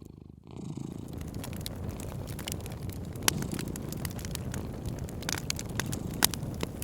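Cat purring steadily, with a wood fire crackling and popping in sharp, irregular clicks over it. The sound dips briefly in the first half second.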